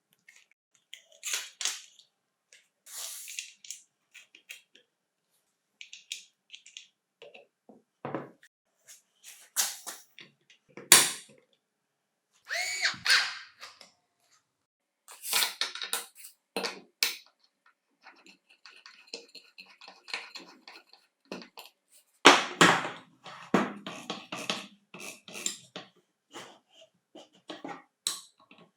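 Hand work on angle grinder parts: a string of separate clicks, knocks and short scrapes with quiet gaps between them, and no motor running.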